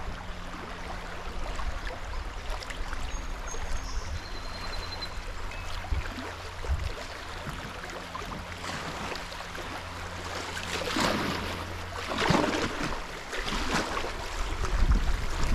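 Creek water splashing and trickling around a kayak as it is paddled, with a few louder paddle splashes near the end.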